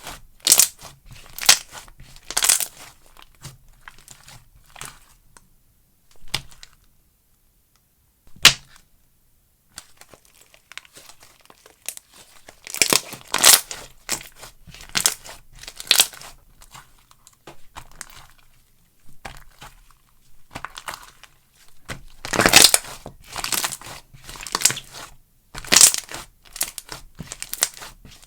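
Slime being squeezed, poked and stretched by hand, making clusters of sharp clicks, pops and crinkly crackles. A short pause comes about a third of the way in, broken by a single sharp click.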